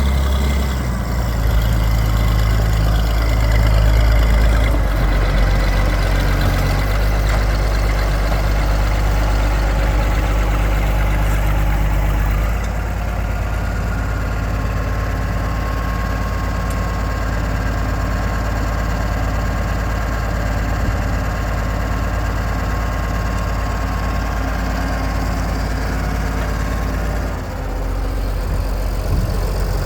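1966 Oliver 1650 tractor's six-cylinder diesel engine running steadily at idle. About twelve seconds in it settles to a slightly lower, quieter speed.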